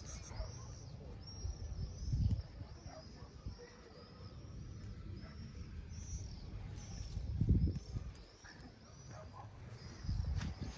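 Small birds chirping repeatedly in the background, short high chirps about once a second, with a few low thumps, the loudest about two seconds in and again past the middle.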